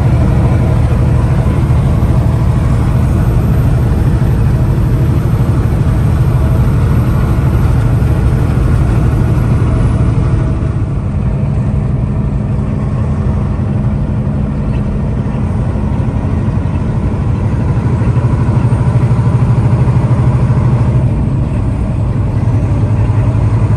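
Semi truck's engine running steadily as it drives, a loud low drone. It eases a little about ten seconds in and builds again near the end.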